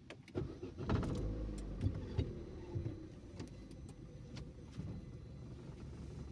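A car engine starting about a second in, then idling steadily.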